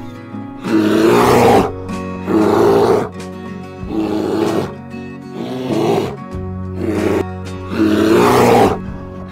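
Background music with a large animal's harsh, breathy calls repeating about every one and a half seconds, each lasting under a second.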